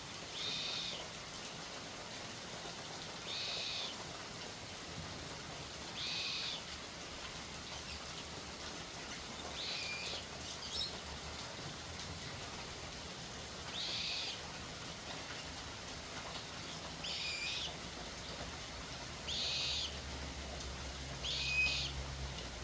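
A bird calling over and over: eight short, high calls, each about half a second long, repeated every two to four seconds.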